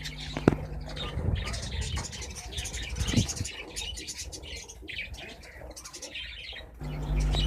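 A group of small pet birds chirping, many short, high chirps overlapping without pause, with a brief knock about half a second in.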